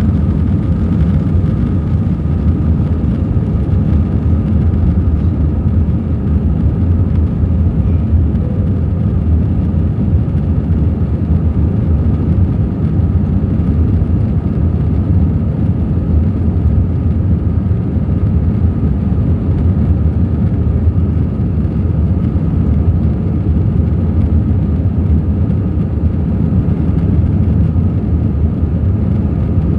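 Airbus A321 jet engines and airflow heard inside the cabin: a loud, steady low rumble with a faint steady whine.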